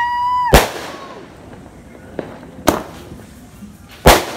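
Handheld firework tube firing shots into the sky: a steady whistle that ends in a loud bang about half a second in, then two more sharp bangs about a second and a half apart.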